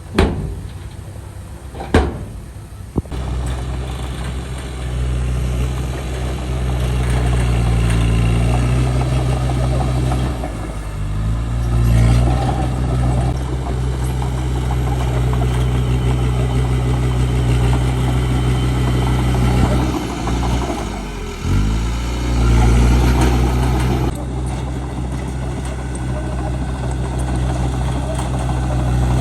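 Heavy diesel engine of earthmoving machinery running steadily, its pitch dipping and recovering twice as the throttle or load changes. A few sharp knocks come in the first couple of seconds, before the engine drone sets in about three seconds in.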